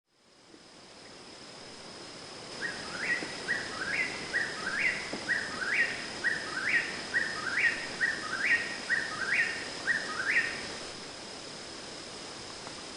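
A bird calling a quick series of short rising notes, about two a second, for some eight seconds. Underneath runs a steady hiss and a thin, steady high-pitched whine.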